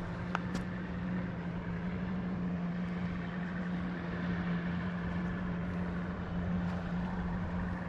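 Motorboat engine running at a steady drone, one low hum holding the same pitch throughout.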